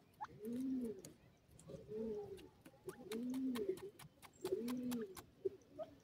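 Soft, low cooing bird calls, each short and arched in pitch, repeated about every second and a half, with sharp ticks between them in the middle.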